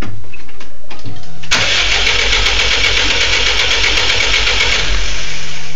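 Starter motor cranking the swapped-in WRX engine of a Subaru GC8 Impreza in a rhythmic churn for about three seconds, starting suddenly about a second and a half in and stopping near the end. The engine cranks but does not start.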